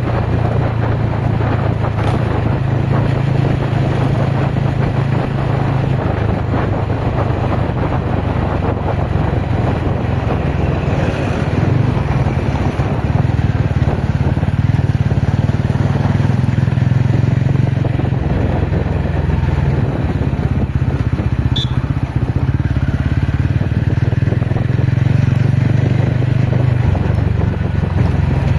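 TVS Ronin's single-cylinder engine running steadily while riding off-road, over a constant rush of wind and tyre noise.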